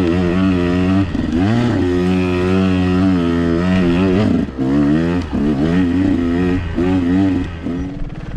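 KTM 125XC's 125 cc two-stroke single-cylinder engine revving hard under load, the throttle chopped and reopened several times so the pitch repeatedly dips and climbs. It eases off near the end.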